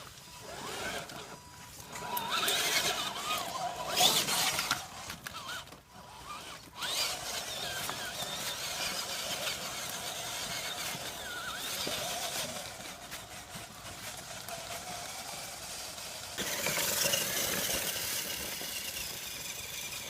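RC car's motor whining and revving, its pitch rising and falling as it is driven in bursts, with a louder rushing stretch near the end.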